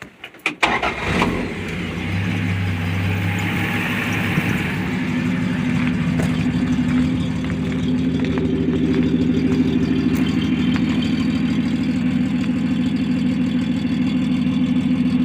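Plymouth Valiant's 170 cubic-inch slant-six cranking briefly and catching within the first second, then settling into a steady idle. It breathes through a single 2¼-inch pipe into a Flowtech Afterburner muffler, with no tailpipe past the muffler.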